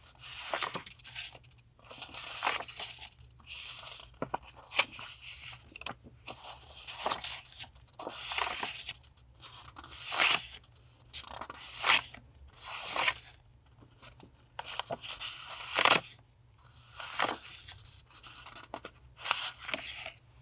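Paper rustling and crinkling in short bursts as sheets and packets of stationery are handled.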